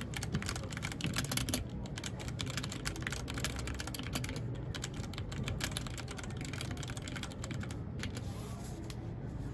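Typing on a mechanical keyboard: fast runs of keystroke clicks with a brief pause about four and a half seconds in, growing sparser near the end. A steady low hum sits underneath.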